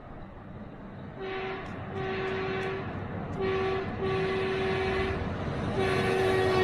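Air horn sounding five blasts, some short and some long, on one steady pitch over a low rumble, louder toward the end.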